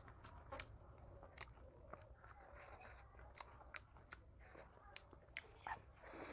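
Quiet, close-miked chewing of a person eating, with irregular small mouth clicks and crunches.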